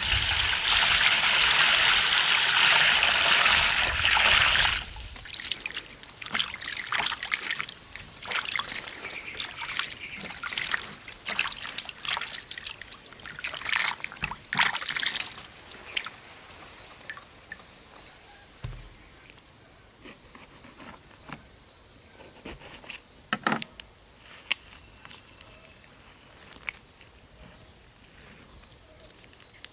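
Liquid pouring in a steady stream for about five seconds, then scattered clicks and knocks of handling.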